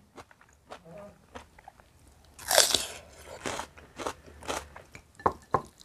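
A crisp bite into a piece of raw bitter melon about two and a half seconds in, followed by several crunchy chews.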